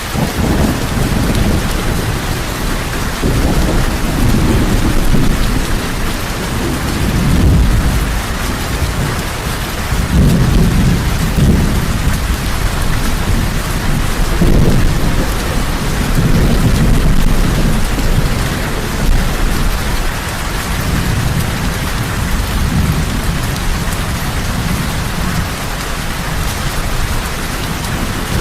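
Heavy rain falling steadily, with low rolling thunder swelling and fading again and again underneath.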